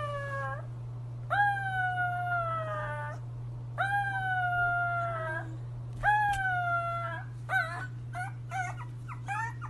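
Young animal howling: four long drawn-out calls, each rising sharply and then sliding slowly down, followed near the end by a quick run of short yips, over a steady low hum.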